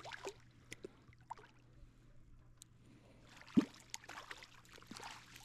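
Faint splashing and trickling of river water with small scattered clicks, and one low thump about three and a half seconds in.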